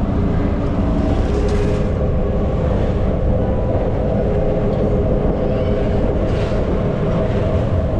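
Steady running noise of a moving motor vehicle, engine and road noise with a few held low tones.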